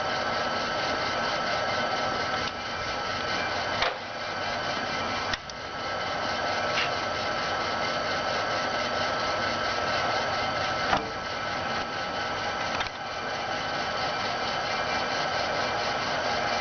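A 1981 Jet 24" x 120" gap-bed engine lathe running under power: a steady mechanical whir with a constant high tone over it. There are a few sharp clicks, and small shifts in level come with them.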